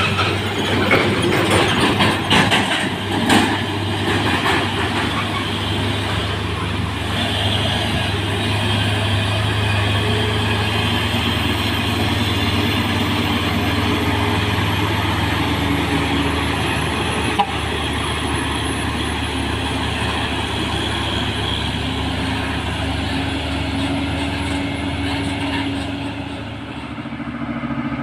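Heavy diesel truck engine running steadily under load on a steep uphill climb, with some clattering in the first few seconds.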